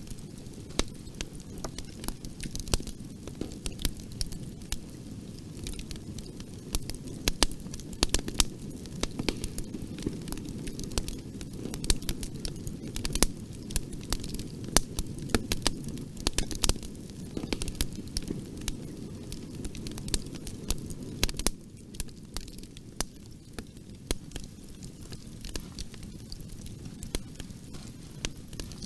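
Fireplace fire crackling, with frequent irregular sharp pops and snaps over a steady low rush of flames. The low rush eases a little about two-thirds of the way through.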